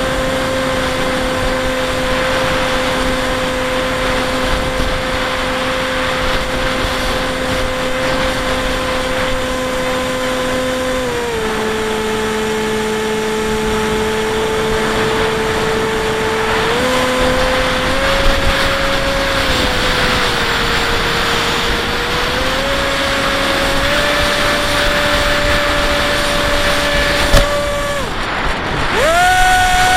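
Bixler 1.1 foam RC plane's brushless electric motor and pusher propeller whining steadily, heard from the onboard camera over a rush of wind. The pitch steps down and back up as the throttle changes. Near the end the motor briefly drops off, then is opened up sharply to a higher whine.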